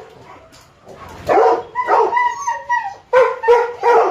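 Dogs barking and yipping in a run of short, repeated calls that start about a second in, with a brief break near three seconds before more barks.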